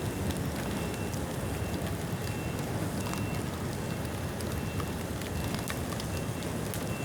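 Bonfire of rain-wet bamboo burning: a steady rushing noise of the flames with scattered small crackles and pops.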